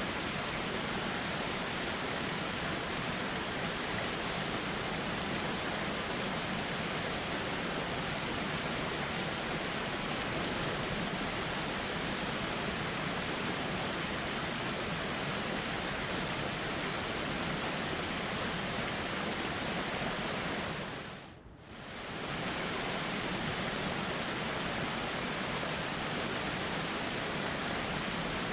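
A river flowing steadily, an even unbroken rush of water. About 21 seconds in it fades down briefly and comes straight back, like the join of a looped recording.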